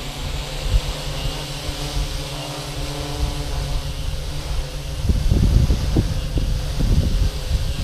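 A 3D-printed Inspire-style multirotor drone's electric motors and propellers running in flight, a steady hum of several tones, with wind buffeting the microphone about five to seven seconds in.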